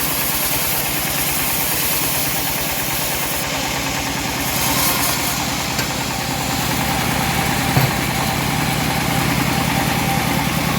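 Engine of a homemade bandsaw sawmill running steadily with an even low pulsing, and a single short knock about eight seconds in.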